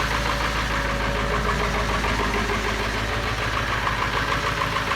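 Ford 7.3-litre Power Stroke V8 turbo-diesel running steadily at idle just after a cold start in freezing weather.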